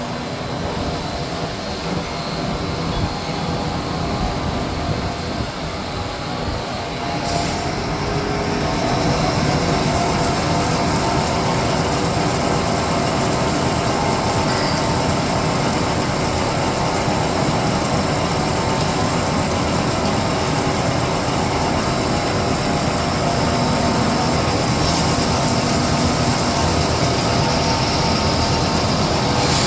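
OC 400 flat-bed CNC lathe running, a steady mechanical noise with several steady tones; about eight seconds in it grows louder and a hiss joins it, then holds steady.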